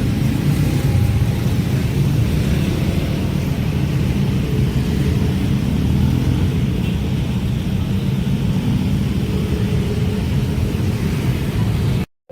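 Train passing, a steady loud rumble of the wheels and engine, cut off abruptly just before the end.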